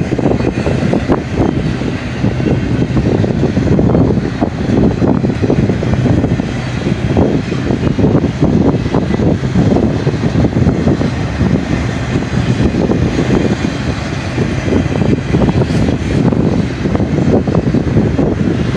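BNSF double-stack container train rolling past: a loud, steady rumble of steel wheels on rail, with quick clicks and clatter running through it.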